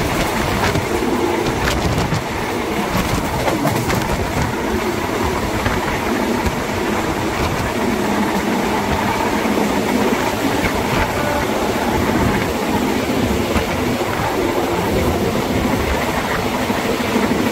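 Thai Southern Line passenger train running along the track, heard from aboard: a steady rumble of wheels on rail with a clickety-clack over the rail joints.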